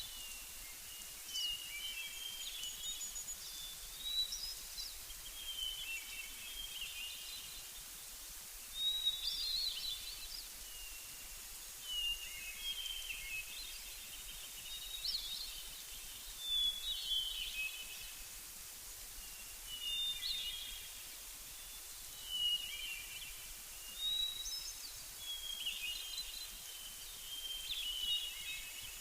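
Songbirds singing short chirping phrases one after another, a new phrase every couple of seconds, over a steady faint hiss.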